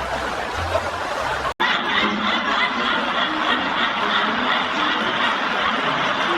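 People laughing, cut off abruptly about one and a half seconds in and then resuming.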